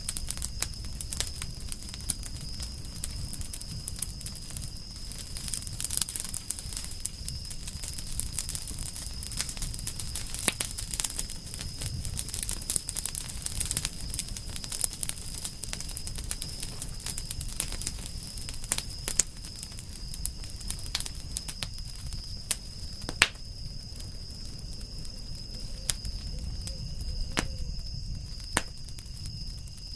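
Campfire of burning firewood crackling, with irregular sharp pops of varying loudness over a low rumble, and a faint steady high-pitched tone behind it.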